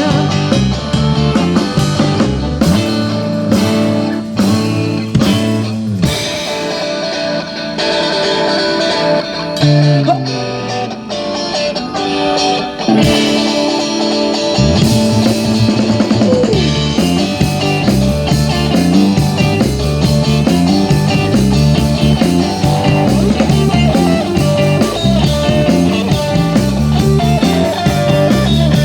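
Live rock band playing an instrumental passage on electric guitar, bass and drum kit. About six seconds in the bottom end thins out for several seconds, with a sliding note falling near the middle, then the full band comes back in.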